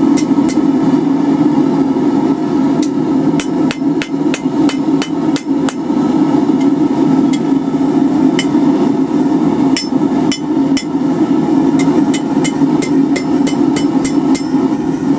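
Hand hammer striking a hot steel bar over the anvil horn in quick runs of sharp, ringing blows with short pauses, bending and closing the hook. A steady low rumble runs underneath.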